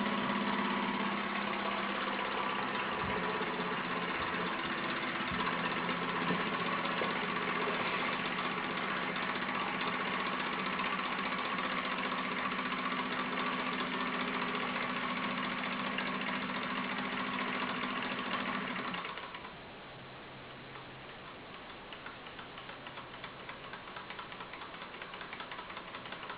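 Model gamma Stirling engine running with a steady mechanical hum and clatter. About three quarters of the way through the hum cuts out, leaving a quieter, faster ticking rattle.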